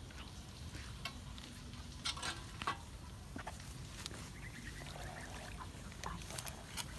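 Water gurgling and trickling through the debris in a clogged drain, with scattered clicks and knocks of sticks and debris; a cluster of louder knocks comes about two to three seconds in.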